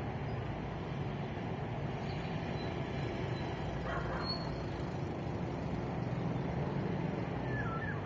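Steady low rumble of road traffic, with a couple of short bird chirps about halfway through and near the end.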